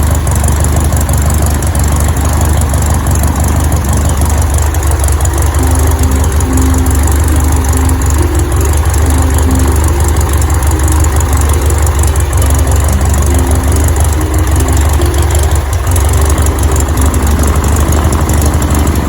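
Cessna 150's four-cylinder Continental O-200 engine and propeller running steadily, loud and even, with short steady tones coming and going in the middle.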